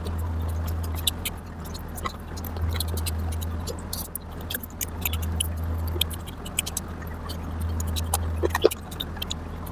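Close-miked chewing and mouth sounds while eating curry and rice: many short, sharp wet clicks and smacks in an irregular stream, over a low steady hum that swells and fades.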